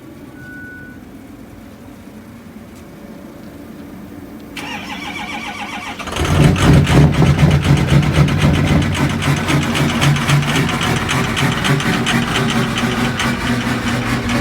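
Ford 6.0 L Power Stroke V8 turbodiesel cold-started at 4 °F with the block heater unplugged. The starter cranks for about a second and a half, starting about four and a half seconds in. The engine then catches about six seconds in and runs at a steady cold idle with heavy diesel clatter, chugging along.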